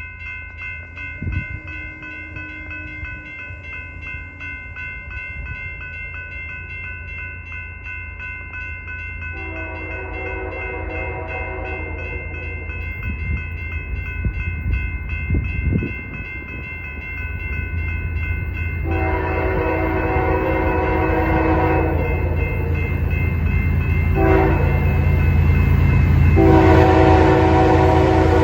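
Diesel locomotive of a BNSF intermodal train approaching, its engine rumble growing louder, sounding its multi-note air horn in a long, long, short, long pattern, the grade-crossing signal. A steady high ringing runs under the first two thirds.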